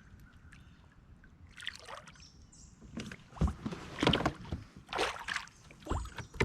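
Knocks and rustling on a fishing kayak, sparse at first, then a run of sharp thuds from about halfway through.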